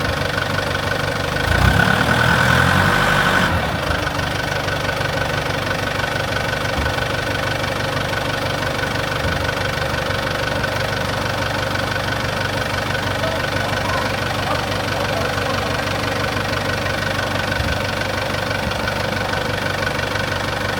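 Excavator engine running steadily at idle, getting louder for about two seconds near the start before settling back.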